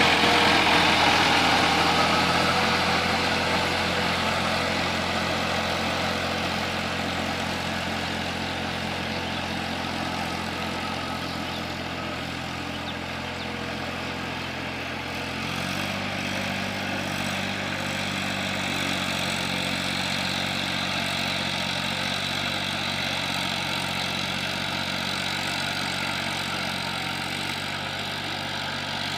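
Eicher 480 DI tractor's diesel engine running steadily, its note shifting about halfway through.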